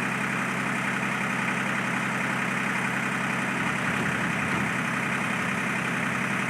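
A steady mechanical hum with an even hiss that does not change, like a motor or fan running.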